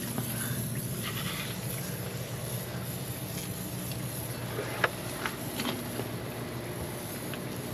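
A pressure washer running with a steady hum as a truck chassis is sprayed down, with a few sharp clicks about five seconds in.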